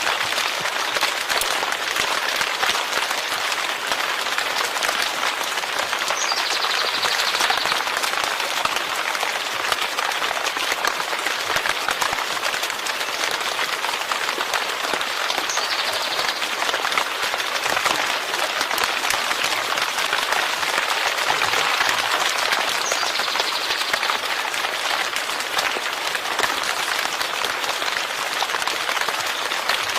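Steady rain with dense pattering drops, even in level throughout.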